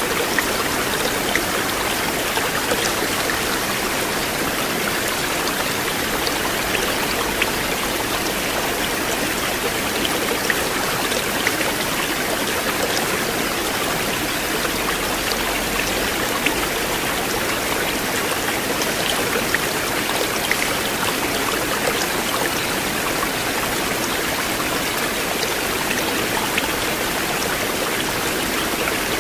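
River water flowing in a steady, unbroken rush, with faint small splashes and drips ticking through it.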